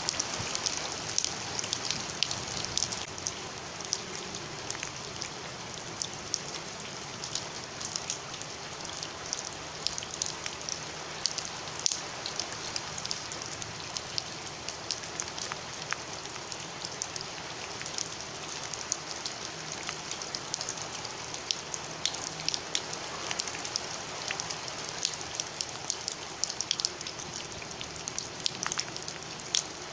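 Heavy rain pouring onto a paved floor covered in standing water: a steady hiss with many separate drop splashes close by.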